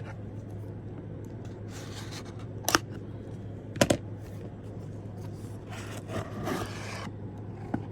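Packaging being handled and opened: rustling and scraping of a cardboard box and its contents, with two sharp clicks about a third and half of the way through.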